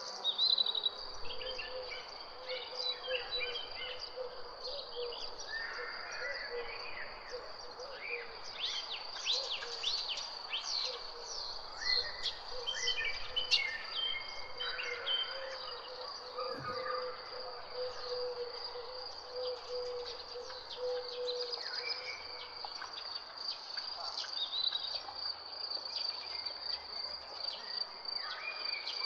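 Many songbirds chirping and calling over a steady, high-pitched insect trill, with the chirping busiest about a third of the way in. A faint low steady hum runs underneath and stops about three-quarters of the way through.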